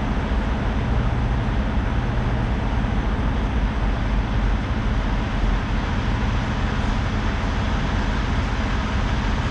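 Heavy truck running steadily: a constant low engine hum under even road noise.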